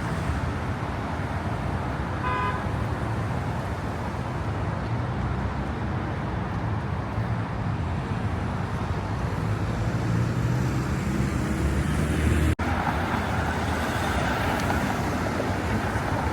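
Steady city street ambience dominated by road traffic, with a short high beep about two seconds in. The sound drops out for an instant near the end.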